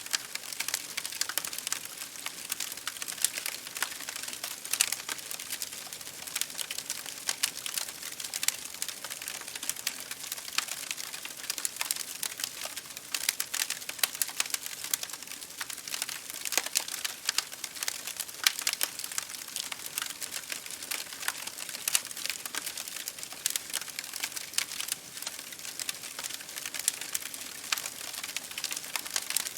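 Wood fire crackling in a fireplace, with dense irregular snaps and pops, over a steady hiss of rain striking a window pane.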